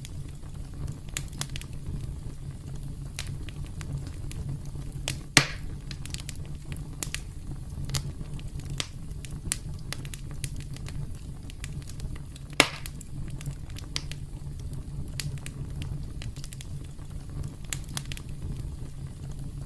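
Campfire burning: a steady low rumble of flames with frequent small crackles and two loud pops about five and twelve seconds in.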